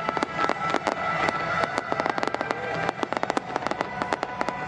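Fireworks display: a rapid, uneven string of sharp bangs and crackles from bursting shells, several a second and thickest around the middle, with music playing underneath.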